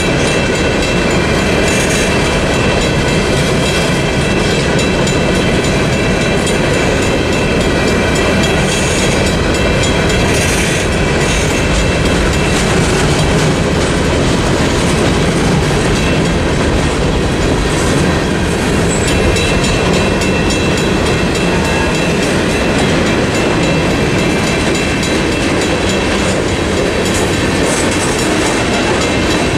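Freight cars of a CSX mixed freight rolling through a level crossing: a steady rumble with the clickety-clack of wheels over the rail joints. Under it runs a steady high ringing from the crossing signal's Western-Cullen-Hayes mechanical bell.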